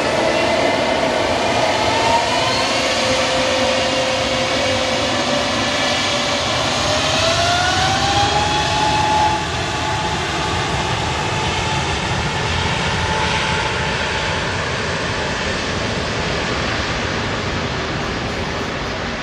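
Jet airliner's engines running close by: a loud, steady rushing noise with whining tones that glide in pitch, one rising about seven seconds in. The sound drops a little in level about halfway through.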